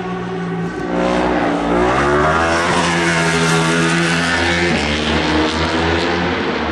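Superbike racing motorcycles' engines at high revs passing on the circuit, growing louder about a second in, with a shift in pitch about two-thirds through.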